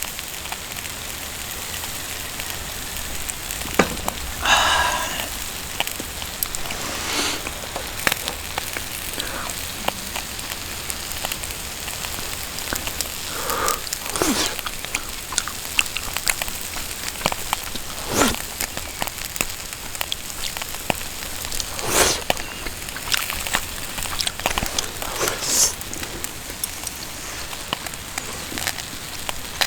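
Wood campfire crackling, a dense patter of small ticks with a handful of louder sharp pops.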